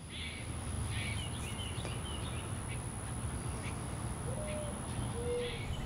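Quiet outdoor ambience: a low steady rumble with faint, scattered bird chirps, and two short low calls about four and five seconds in. A faint steady high-pitched whine runs underneath.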